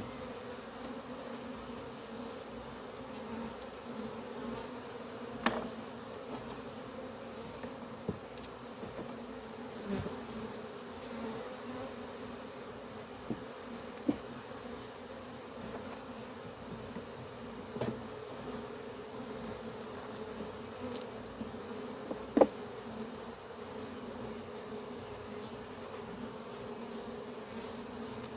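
Steady buzzing of a honey bee swarm in the open, many bees flying close by, with occasional light knocks of the hive boxes and frames being handled.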